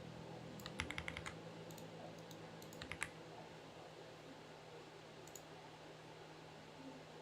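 Typing on a Xinmeng X98 mechanical keyboard: a quick run of about half a dozen keystrokes about a second in, a few more scattered keystrokes over the next two seconds, then a single keystroke past the halfway point.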